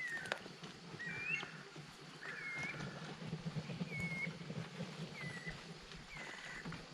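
Birds calling: a short whistled call, dipping then rising in pitch, repeated about once a second, with a few sharp clicks and a low steady hum underneath.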